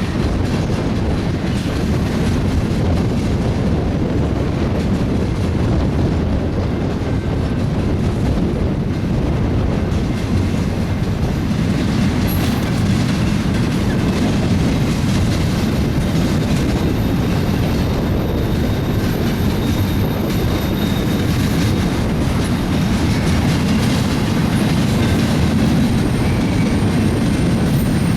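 BNSF double-stack container freight train rolling past, a steady loud rumble and clatter of steel wheels on the rails. Faint high-pitched wheel squeal comes in about halfway through.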